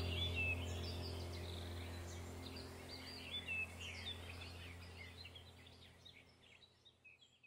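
Small birds chirping and twittering in quick, scattered high notes over a steady low hum, the whole sound fading out gradually.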